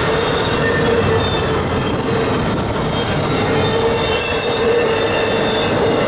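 CSX double-stack intermodal freight cars rolling past at speed: a steady rumble and clatter of wheels on rail, with a steady whine from the wheels over it.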